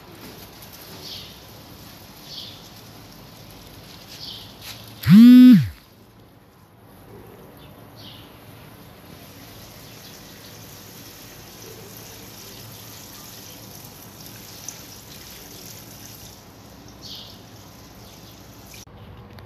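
Faint short chirps of small birds every few seconds, broken about five seconds in by one loud cry under a second long that rises in pitch, holds and falls away.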